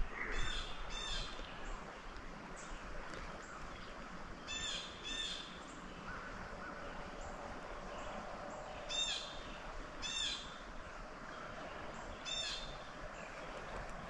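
A bird calling repeatedly: about seven short calls, mostly in pairs, every few seconds, over a faint steady background hiss.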